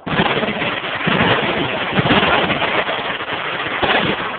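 Sustained automatic machine-gun fire: a dense, unbroken volley that starts suddenly and runs on loudly.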